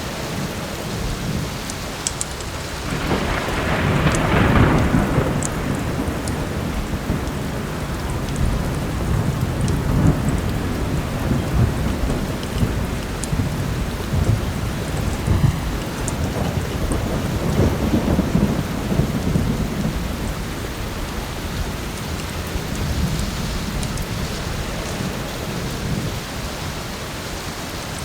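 Heavy rain falling steadily while thunder rolls, loudest a few seconds in and again more softly later on. Faint scattered crackles from a wood fire sit over the rain.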